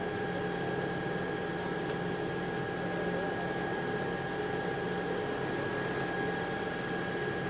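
A steady machine hum: a constant whine with a couple of higher tones over an even rushing noise, unchanging throughout.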